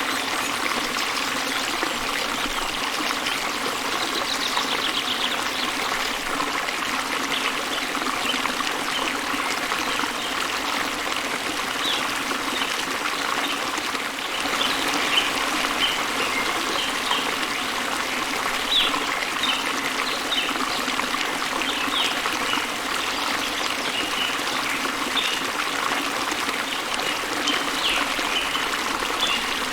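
Waterfall spilling into a river: a steady rush and trickle of running water, with many small splashing flecks on top.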